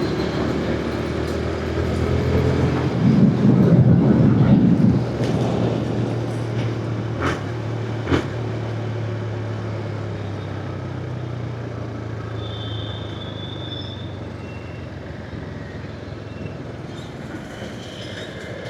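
Motorcycle engine running at a steady cruise with wind and road noise. There is a louder rush of noise about three seconds in, and two sharp clicks near the middle.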